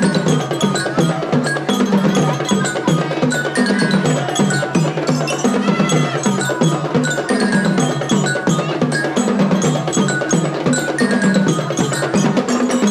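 Drum corps percussion playing a fast, dense pattern of drum strokes mixed with short pitched notes and bright bell-like mallet percussion.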